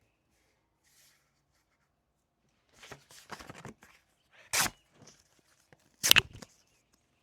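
Paper being handled: a short run of rustling, scratchy noises, then two louder sharp rustles about a second and a half apart.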